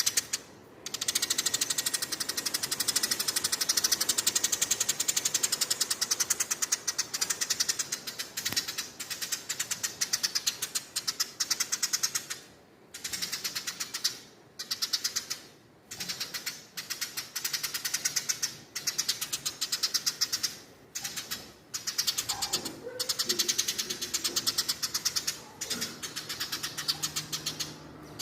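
Female Eurasian tree sparrow chattering: rapid runs of sharp, high chirps repeated many times a second, coming in bursts of a few seconds with short pauses between.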